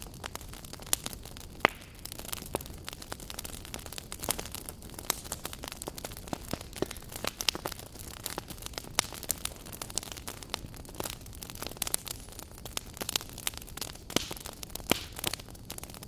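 Wood fire burning in a fireplace, crackling with many irregular sharp pops over a steady low hiss.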